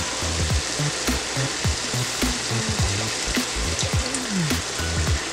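Fish fillets sizzling as they fry in olive oil in a pan, with a sauce poured over them near the end. Background music with a bass line plays underneath.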